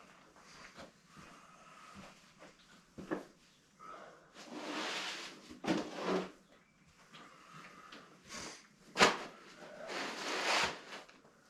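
Rustling and knocks of parts and tools being handled, in a few separate bouts, with a sharp knock about nine seconds in.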